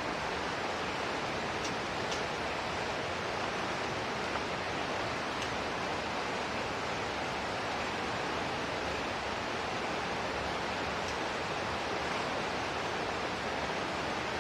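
Steady hiss of falling water, unbroken throughout, with a few faint short high ticks.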